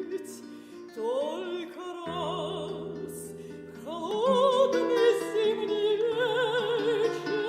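A woman singing in a classical operatic style with wide vibrato, accompanied by piano. Her voice slides up into long held notes about a second in and again around four seconds in.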